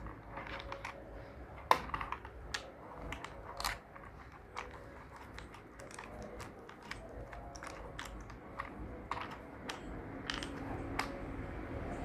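Plastic building bricks clicking and tapping as they are handled and pressed together: irregular sharp clicks, the loudest about two seconds in.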